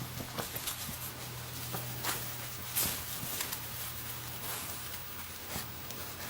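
Irregular light clicks and scuffs from a scarlet macaw playing rough with a person's hand, with a steady low hum underneath.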